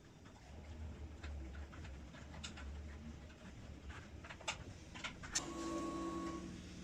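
Scattered light clicks and taps. About five seconds in, a click starts a steady faint electric hum lasting about a second, typical of a motorcycle's fuel pump priming when the ignition is switched on just before starting.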